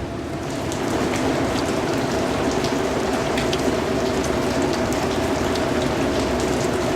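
Steady rain falling, with individual drops ticking sharply through the patter, growing a little louder about a second in. A low steady hum runs underneath.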